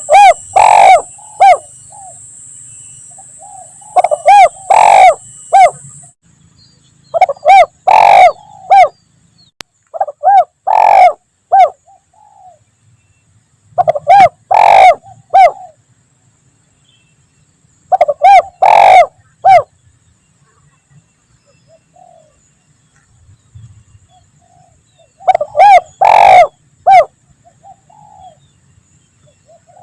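Spotted dove (tekukur) cooing: short phrases of a few coo notes, repeated about every three to four seconds, seven phrases in all, with a longer pause about two-thirds of the way through.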